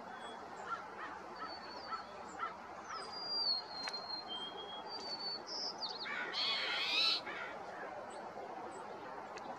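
Birds calling: scattered thin, high whistled notes, one a falling whistle about three seconds in that levels off and holds for over a second. About six seconds in comes a louder, harsh honking call of about a second, the loudest sound here.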